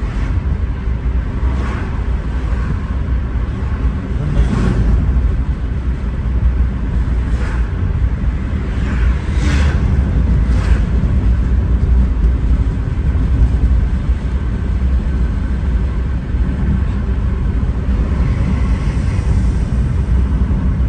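Steady low rumble of a Volkswagen Polo on the move, with a few light knocks in the first half.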